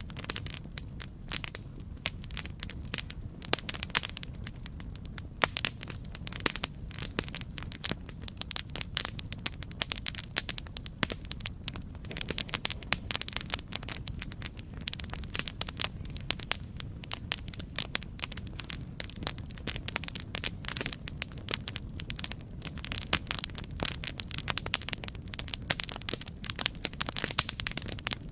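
Campfire burning with dense, irregular crackles and pops over a low rumble of flame.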